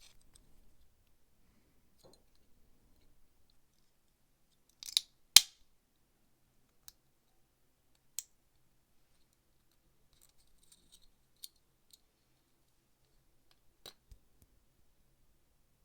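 Small metal lighter parts being handled: scattered light clicks, with a sharp metallic snap about five seconds in.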